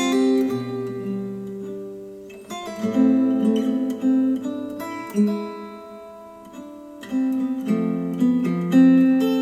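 Acoustic guitar music played back through Polk Audio Reserve R200 bookshelf speakers: strummed chords struck every couple of seconds, each left ringing and fading before the next.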